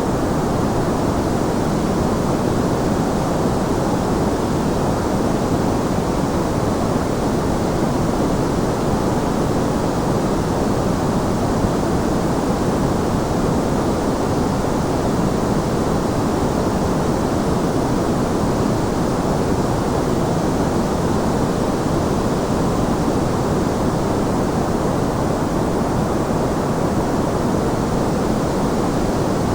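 Steady, unchanging sleep-aid white noise, an even rushing hiss weighted toward the low and middle range.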